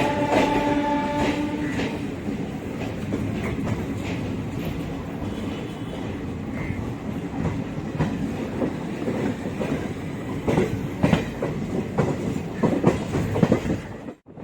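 Passenger express train running on the rails, with wheels clicking and knocking over rail joints. A steady horn tone sounds for the first two seconds. The sound cuts off abruptly just before the end.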